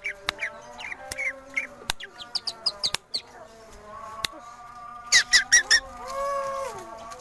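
Long-tailed shrike (cendet) singing a fast, varied song of short chirps, clicks and mimicked calls, with a loud run of sharp chirps about five seconds in, followed by a drawn-out arched whistle.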